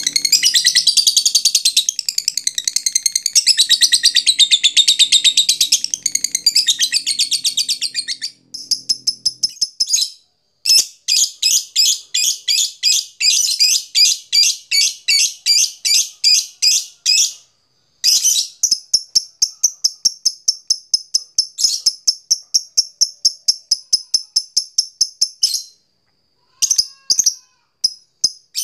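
Lovebird's long 'ngekek' chatter: first a dense run of high twittering, then long strings of sharp repeated notes about six a second, broken by a few short pauses.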